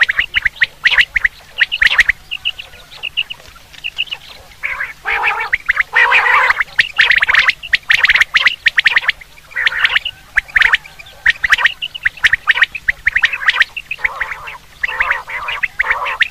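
Common quail calling: fast runs of short, harsh repeated notes in clusters with brief pauses, over a faint steady low hum.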